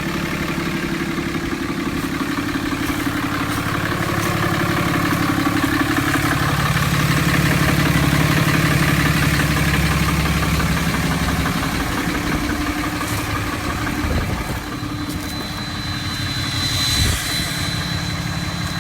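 2008 Dodge Ram 3500's 6.7-litre Cummins inline-six turbo diesel, EGR-deleted and tuned, idling steadily. It grows a little louder mid-way and eases back, and a thin high whistle from the turbo joins in near the end.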